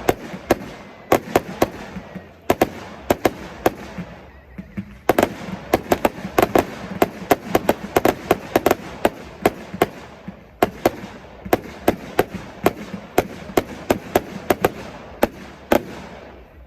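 Fireworks display going off: a rapid, irregular run of sharp bangs, several a second, with brief lulls about four and ten seconds in.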